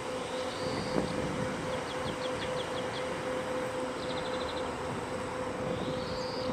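Steady machinery hum aboard a river cruise ship in a lock: a constant mid-pitched tone over a broad rushing noise. Short bursts of high, rapid chirps come every second or two.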